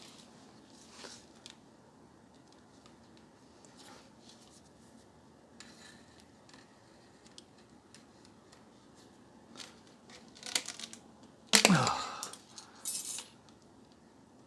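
Faint clicks and rustles of a Dyson DC33 vacuum hose being worked with a bent wire hook to free a blockage, with a louder burst of scraping and rattling about eleven and a half seconds in.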